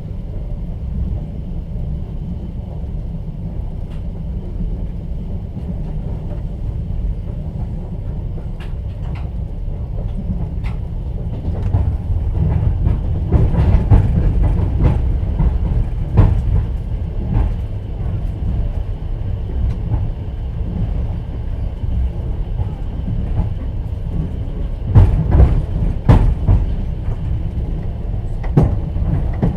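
Moving passenger train heard from inside an open-berth sleeper carriage: a steady low rumble of the wheels and running gear, with the clack of wheels over rail joints as irregular sharp knocks. The knocks get louder about twelve seconds in and again in a cluster near the end.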